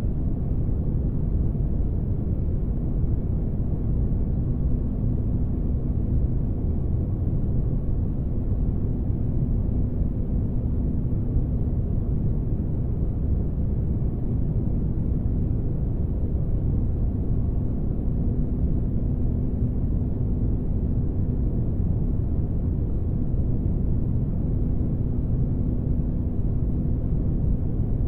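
Spaceship ambience: a steady, deep rumbling noise, with a faint hum that fades in and out every several seconds.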